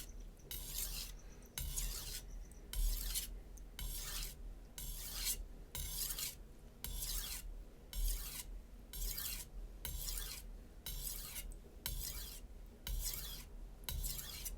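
A HAP40 steel chef knife edge being stropped in a steady run of light, even scraping strokes, about one and a half a second, as the final deburring stage after sharpening.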